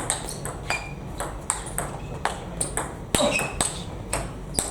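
Table tennis rally: the ball clicking sharply off bats and table, about two to three hits a second, some with a short high ring.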